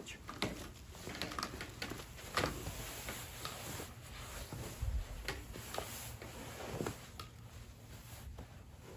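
A camping hammock's fabric rustling and its straps creaking as a man climbs in and settles his weight into it, with scattered soft clicks and a dull thump about five seconds in.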